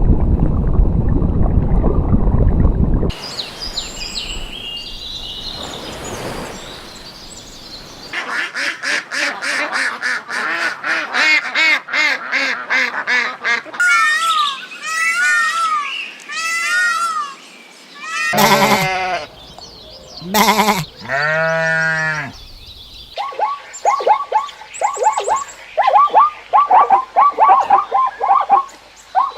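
Different farm animals calling one after another, cut together. A loud, low, noisy sound fills the first three seconds. Then come rapid repeated calls, arching pitched calls, a few long calls around twenty seconds in, and a fast run of short repeated calls near the end.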